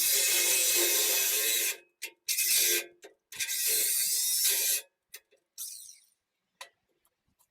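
Handheld power tool working metal, run in three bursts: a long one of about two seconds, a short one, then one of about a second and a half. A few light knocks and clicks follow.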